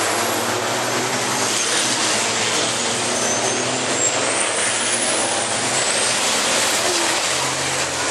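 Racing trucks' diesel engines running on the circuit: a loud, steady noise with faint high whistling tones that rise and fall.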